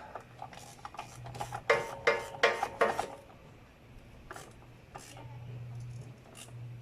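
Metal tools clinking and knocking against motorcycle parts: a quick run of about five sharp clanks about a second and a half in, then a few fainter knocks.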